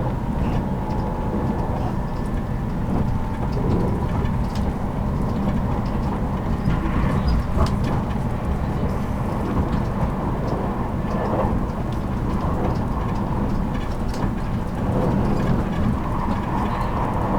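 Running noise of a JR Kyushu 783 series electric train, recorded in its motor car MoHa 783-13: a steady low rumble of wheels on rail with a few faint clicks from the track.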